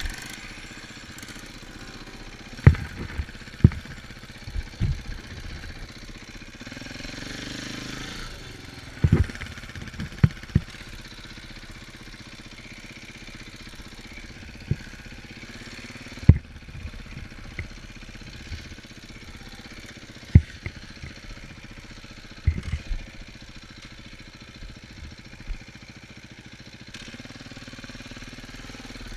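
Dirt bike engine idling steadily, with a dozen or so short, sharp low thumps scattered through.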